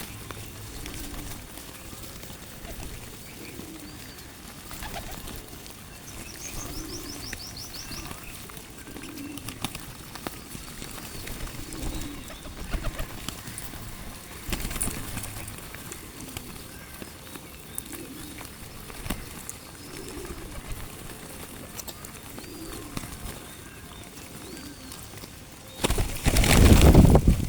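Pigeons cooing repeatedly, low soft calls every second or two, with a brief high chirping trill from a small bird. Near the end comes a loud rushing burst of about a second and a half.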